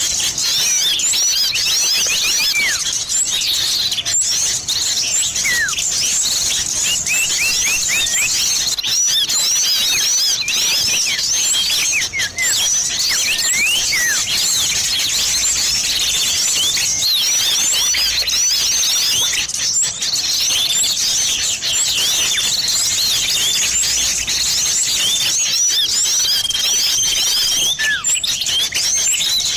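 Bird-lure recording combining sirtu and cipoh (common iora) calls: a dense, continuous stream of rapid high-pitched chirps and short down-slurred notes. A steady held whistle comes about 26 seconds in.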